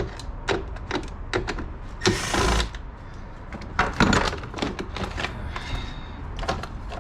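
Clicks and knocks of a hand wrench and socket working small 7 mm nuts off metal parts, with a half-second burst of noise about two seconds in and a cluster of knocks about four seconds in.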